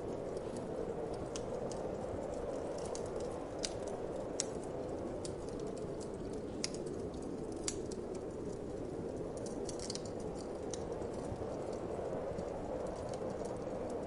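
Wood fire crackling in a fireplace, with irregular sharp pops and snaps, over a steady whoosh of wind.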